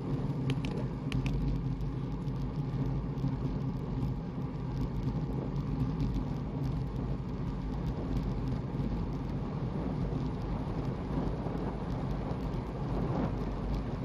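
Steady low rumble of road and wind noise while moving, with a few faint ticks near the start.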